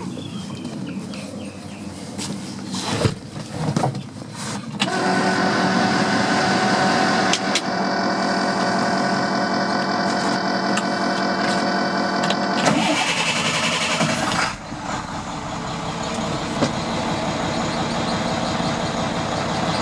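DT466 inline-six diesel of an International 4300 truck starting on a cold start: a couple of knocks, then the engine catches about five seconds in and runs at a raised idle. About fourteen seconds in it drops to a slightly quieter steady idle.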